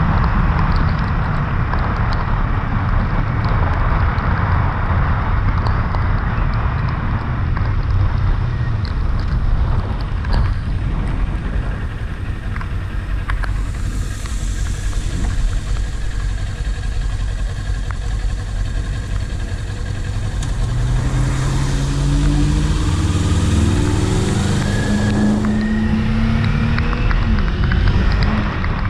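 Kawasaki Ninja 400 motorcycle riding, with heavy wind noise on the microphone throughout. About three-quarters of the way in, its parallel-twin engine is heard accelerating, the pitch rising in steps through the gears.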